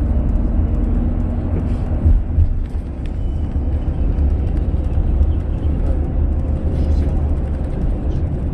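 A car on the road: a steady low rumble of engine and road noise.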